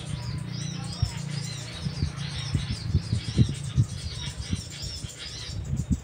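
A small bird chirping over and over in short high arched notes, two or three a second, which stop shortly before the end. Irregular low thumps run underneath.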